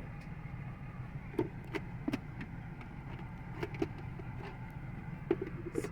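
Several light plastic clicks and knocks as the car vacuum's filter bowl is snapped back into place, over the steady low hum of the idling car engine.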